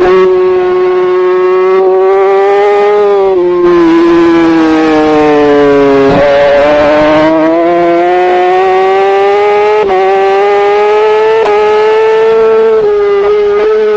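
Superbike engine running at high revs, heard on board the bike. The engine note drops as the rider slows for a corner a few seconds in, then climbs again through several quick upshifts.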